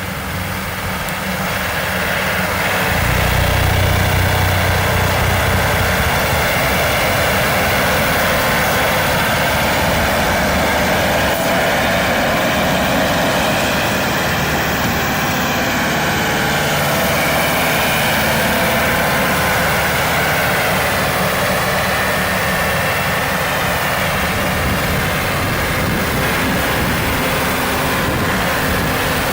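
Diesel engine of a compact tractor running steadily, getting louder over the first few seconds.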